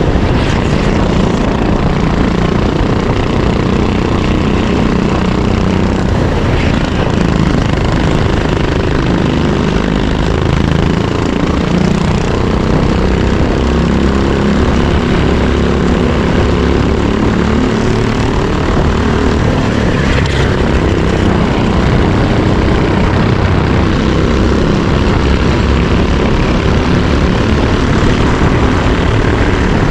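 Racing kart's single-cylinder engine running hard on track, its buzzing pitch rising and falling as the driver works the throttle, with wind noise over it.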